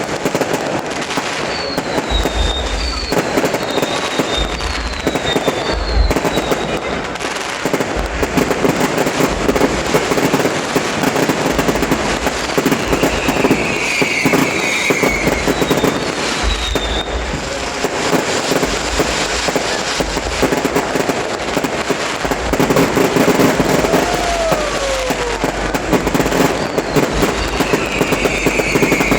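Fireworks display going off continuously: dense crackling and popping over low booms, with several short falling whistles.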